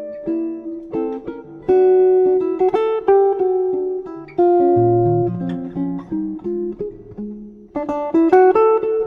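Background music: solo jazz guitar playing single plucked notes and chords, each note ringing and fading.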